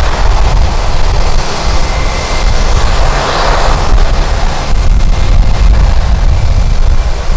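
Jet airliner's engines, their noise swelling and peaking about three and a half seconds in as it passes, with a faint steady whine. Strong wind buffets the microphone with a heavy low rumble throughout.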